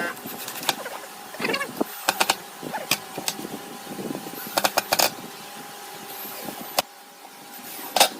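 Scattered knocks and clicks of wood and tools being handled in a woodworking shop, over a faint steady hum.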